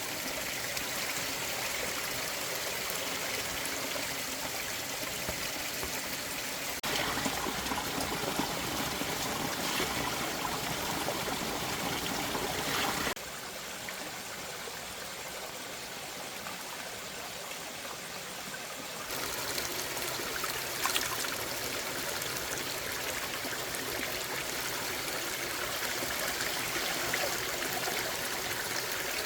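Running water, a steady rushing and trickling, with sudden changes in level about 7, 13 and 19 seconds in.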